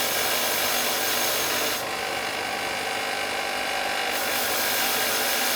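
A workshop tool running steadily with a dense, noisy sound. It grows brighter from about two seconds in to about four seconds in, then cuts off abruptly at the end.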